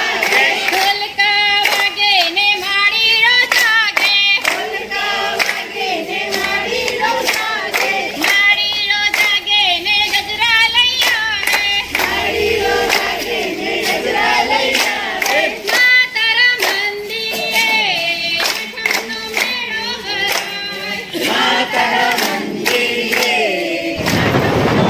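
Voices singing a garba song together, with steady rhythmic hand claps keeping the beat.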